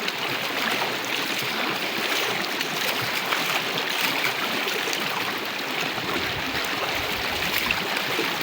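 Flowing river water, a steady rushing; a deeper rumble joins in for a couple of seconds near the end.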